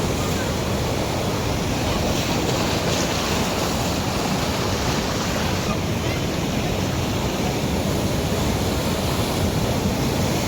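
Sea waves breaking and wind blowing, in a steady, unbroken rush of noise.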